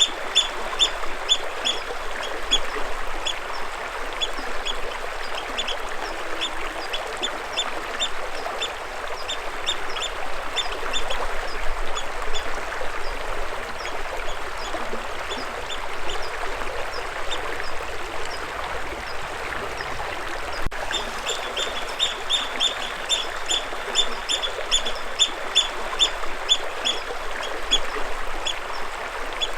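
Steady rush of moving water, with a bird calling in fast runs of short, high repeated notes, several a second, strongest at the start and again in the last third.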